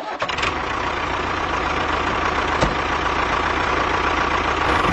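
Steady engine running noise, an even hiss-like rumble with a faint steady tone, broken by one short click about two and a half seconds in.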